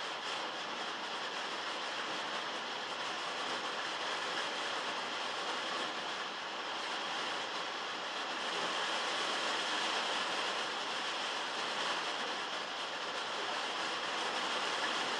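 Heavy rain drumming on a metal roof, heard from inside a shed as a dense, steady patter that swells a little about halfway through.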